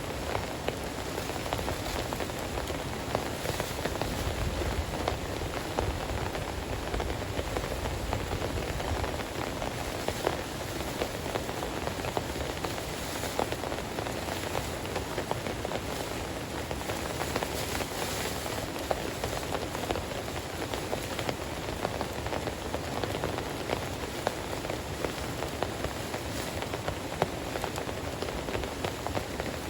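Heavy rain falling steadily, a dense wash of countless drop impacts with no let-up.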